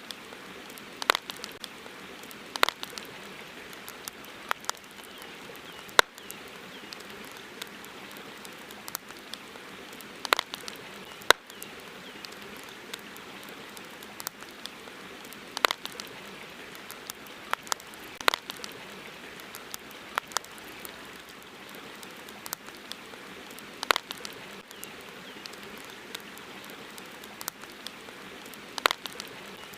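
Campfire crackling: sharp, irregular pops and snaps over a steady hiss.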